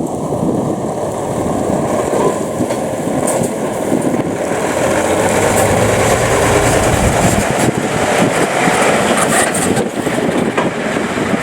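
Heavy diesel truck driving past, its engine and exhaust loud and steady, with a deeper rumble swelling in the middle.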